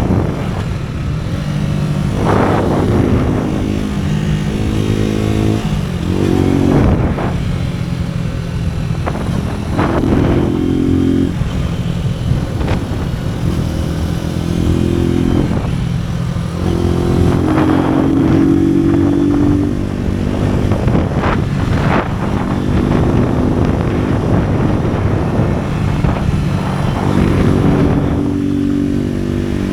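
AKT NKD 125 motorcycle's single-cylinder four-stroke engine running under way, its note stepping up and down about ten times as the throttle and gears change.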